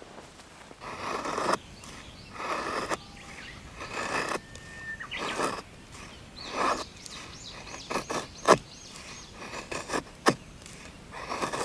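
Firewood being worked by hand: rhythmic rasping strokes about every second and a half, then several sharp cracks near the end.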